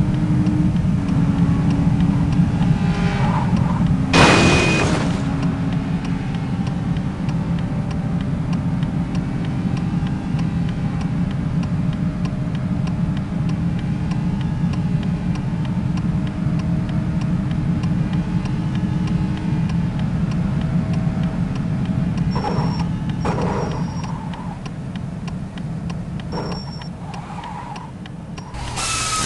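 Steady low rumble of a running vehicle, with a sharp knock about four seconds in.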